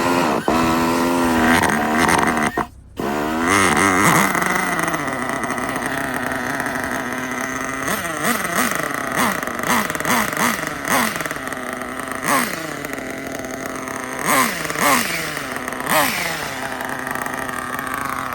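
Small RB CE nitro engine in an RC drag car firing up, dropping out for a moment about three seconds in, then running steadily. From about eight seconds on come a string of short throttle blips, each pitch swoop rising and falling back.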